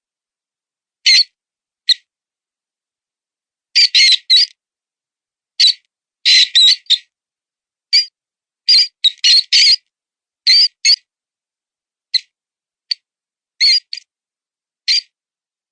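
Mouse squeaking as a wounded-mouse predator lure: short high-pitched squeaks, some single and some in quick runs of two to four, with silent gaps between them.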